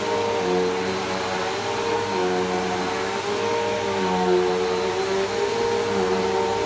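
Bissell Powerforce Helix Turbo upright vacuum cleaner running on a rug, a steady motor hum whose pitch dips slightly and recovers every second or two as it is pushed back and forth.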